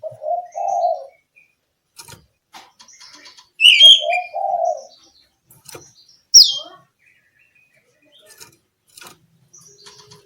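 Oriental magpie-robin (kacer) calling: loud, sharp, high chirps a few seconds apart among scattered short ticks. Twice there is a low two-note coo.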